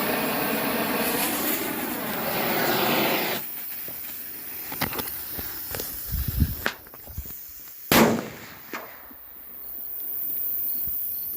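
Jiminy crickets mini-salute firecrackers going off, a string of sharp pops and bangs from about five to nine seconds in, the loudest near eight seconds. Before them, a steady sound with a wavering pitch runs for the first three seconds and then stops.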